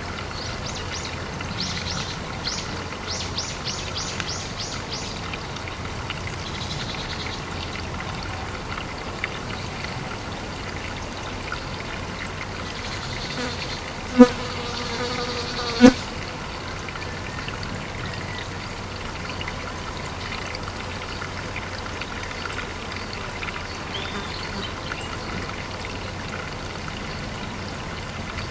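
Pond ambience: steady trickling water with insect buzzing. A quick run of high chirps comes in the first few seconds, and two short sharp sounds come about 14 and 16 seconds in.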